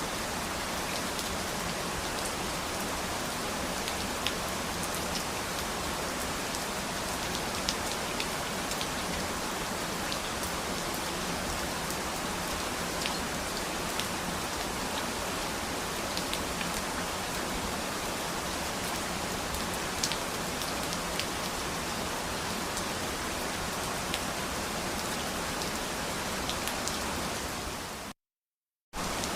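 Steady rain falling on a surface: an even hiss dotted with sharper individual drops. Near the end the sound fades and cuts out to silence for just under a second, then comes back abruptly.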